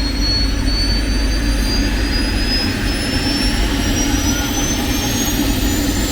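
Aircraft auxiliary power unit, a small kerosene-fired gas turbine mounted in a minibus, running loud: a steady low rumble under a high turbine whine that climbs slowly in pitch.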